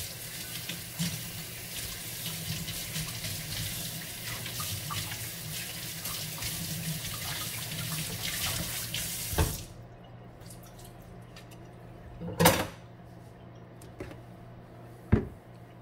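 Kitchen tap running into a sink during washing up, shut off about two-thirds of the way through. Two short knocks follow, the first the louder.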